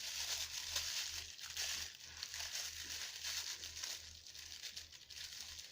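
Packaging rustling and crinkling as hands handle and unwrap pieces of a boxed cutlery set, a continuous patter of small crackles that eases off a little near the end.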